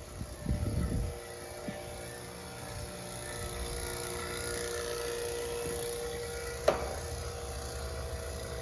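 Refrigeration vacuum pump running steadily, evacuating the air-conditioning system after a service valve replacement. Some low rumbling in the first second, and a single sharp click about two-thirds of the way through.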